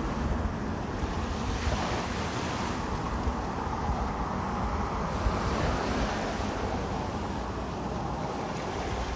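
Waves washing on the shore, with wind rumbling on the microphone.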